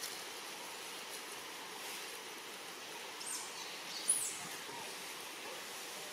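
Steady background hiss, with two short high chirps from a small bird about three and four seconds in, the second the loudest.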